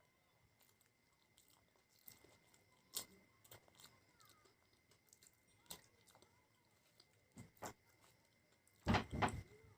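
Close-miked chewing and biting of fried snacks: sparse, soft mouth clicks and crackles, with a louder burst of crunching about nine seconds in.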